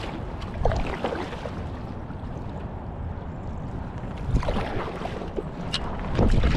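River water moving and splashing around a kayak, with a few paddle-like splashes and wind rumbling on the microphone.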